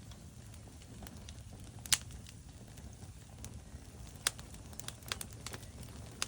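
Wood fire burning in a fireplace: scattered sharp crackles and pops of burning logs over a low steady rumble. The loudest pop comes about two seconds in, and a cluster of smaller ones follows in the second half.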